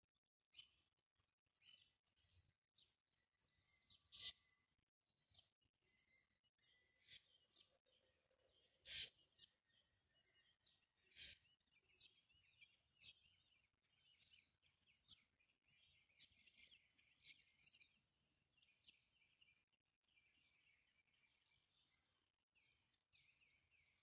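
Faint songbirds chirping in many short calls, busiest in the middle stretch. A few sharp clicks cut through, the loudest about nine seconds in.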